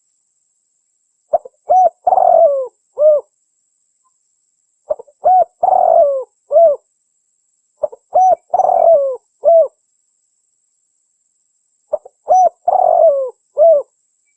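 Spotted dove (tekukur) cooing, a recorded lure call. The same phrase repeats four times, about every three and a half seconds. Each phrase is a short note, two clear coos, a longer rougher coo and a closing coo.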